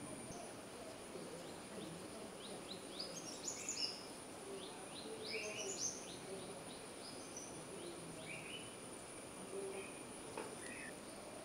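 A bird calling in the background in several runs of quick, high chirps, a couple of seconds apart, over a faint steady high-pitched whine.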